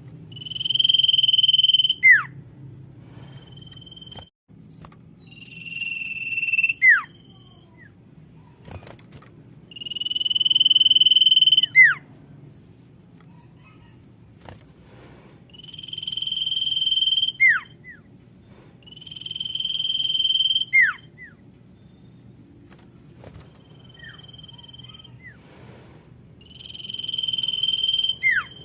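Common iora (sirtu, cipoh) calling: a long, steady whistled note that swells in loudness and ends in a quick downward-sweeping note, repeated about every four to five seconds. A faint low hum runs underneath.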